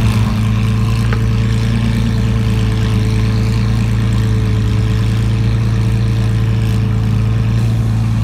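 Supercar engine idling steadily, a low, even hum that holds the same pitch throughout.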